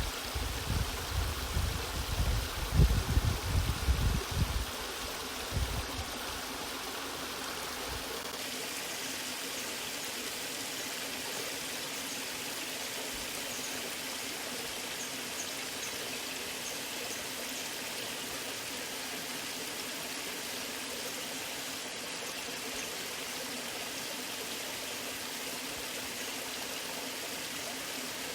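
Waterfall water rushing steadily in an even hiss, with heavy low rumbling gusts in the first five seconds or so that then die away.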